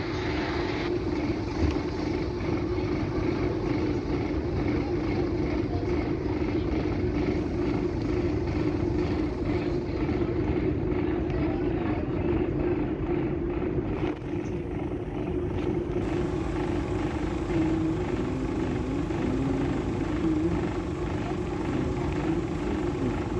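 Heritage train heard from an open carriage window as it rolls slowly along a platform: a steady low drone with a faint, even ticking over it.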